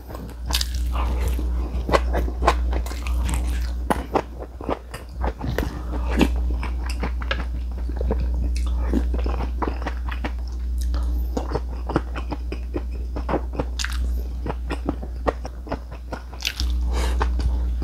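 Close-miked chewing of crunchy Korean seasoned vegetable side dishes and rice, full of short crisp crunches and mouth clicks, over a steady low hum.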